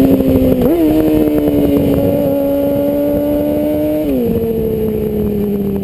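Yamaha R6's inline-four engine running through a Termignoni full-system exhaust under way. The note holds and creeps up, dips and jumps back up about a second in, then drops sharply about four seconds in and slowly falls away.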